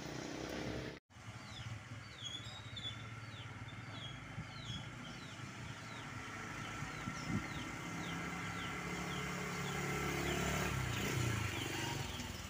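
A passing road vehicle's engine running, a low rumble that grows louder toward the end, with a series of short, high, falling chirps in the first half. The sound drops out completely for a moment about a second in.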